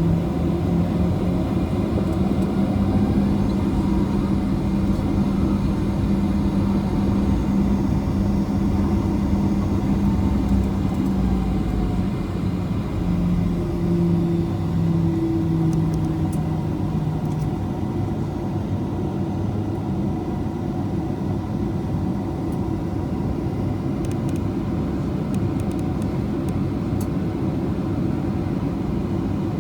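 Steady cabin noise inside a Boeing 737-800: a low rumble of engine and airflow, with a few low humming tones that fade out about halfway through as the overall level eases slightly.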